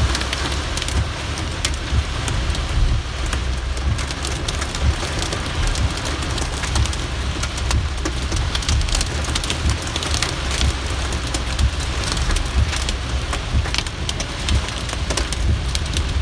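Heavy rain hitting a moving car, heard from inside: a dense, steady patter of sharp drop impacts over a constant low rumble of wind and road noise.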